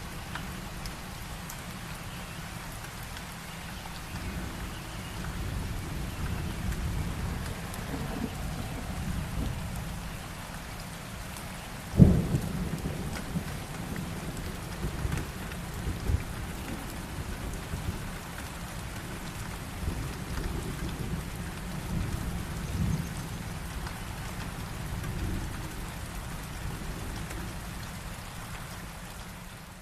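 Steady rain falling, with thunder rumbling. A sharp, loud thunderclap comes a little before halfway through and rolls off into rumbling.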